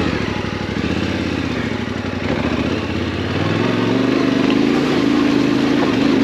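Yamaha Ténéré 700's parallel-twin engine running under way. About halfway through the engine note shifts and grows slightly louder.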